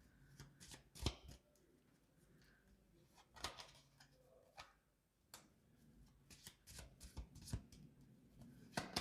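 Tarot cards being handled, heard as faint, scattered snaps and taps of the cards, with several clustered near the end.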